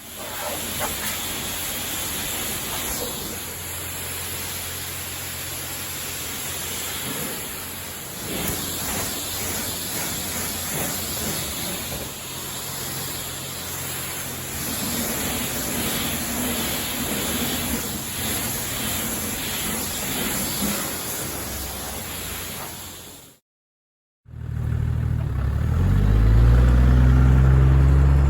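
Toyota Land Cruiser 80 diesel on the move: a steady rush of road and engine noise with a low engine hum. After a brief break near the end, the engine is louder and revs up, its pitch rising.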